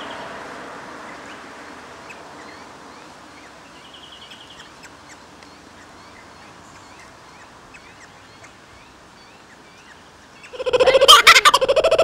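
Faint short bird chirps and a brief trill over a steady outdoor hiss. About ten and a half seconds in, a much louder, rapidly pulsing sound starts abruptly as the picture goes black.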